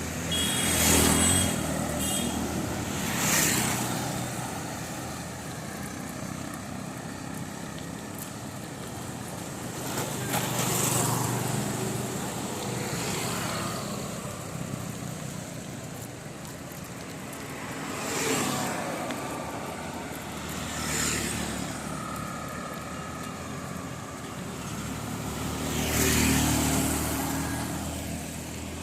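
Road traffic: motor vehicles pass close by one after another, about six times, each swelling up and fading away over a steady street noise.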